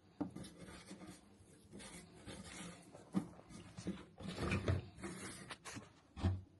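Irregular knocks, clunks and rustling of objects being handled and moved, with a sharper knock about three seconds in and a heavier thud near the end.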